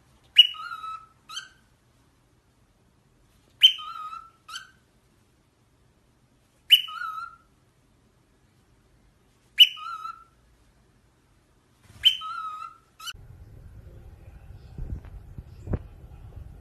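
A parrot whistling the same short two-note phrase five times, about every three seconds. Near the end the whistling stops and a low background rumble with a few clicks takes over.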